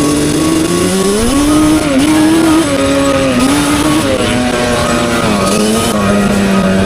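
Two-stroke ATV engine running hard, its pitch rising and falling with the throttle.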